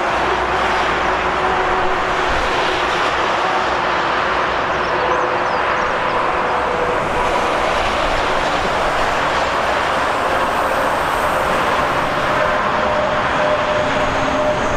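Train passing along the rails: steady loud rolling noise of wheels on track with a few faint steady tones that come and go.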